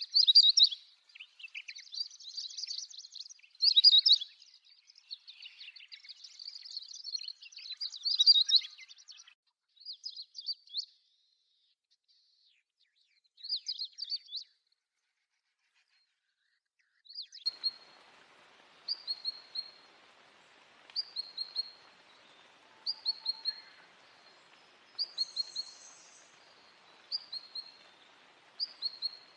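Small songbirds singing: a dense, high twittering song for about the first half, then after a short pause a single bird repeating a short high call about once a second over a faint hiss.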